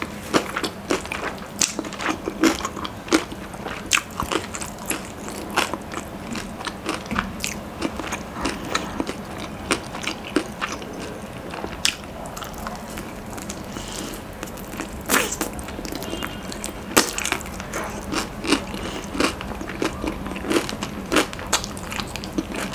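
Close-miked biting and chewing of crispy fried chicken: many irregular crunches and crackles of the breaded coating, with no pause of more than a moment.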